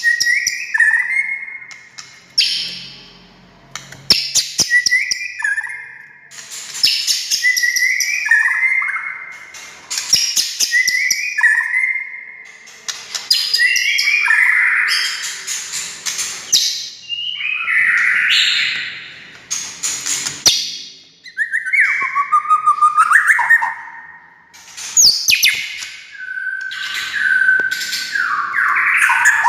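White-rumped shama (murai batu) singing: a new phrase about every two seconds, each mixing sharp rattling clicks with clear whistled notes that often step down in pitch.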